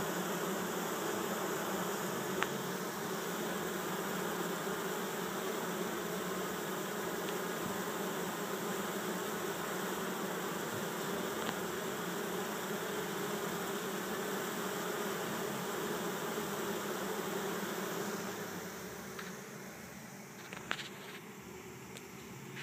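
Honeybee swarm buzzing steadily, many bees fanning their wings as they scent with pheromone to lead the swarm into a new hive. The hum fades near the end, with a brief click shortly after.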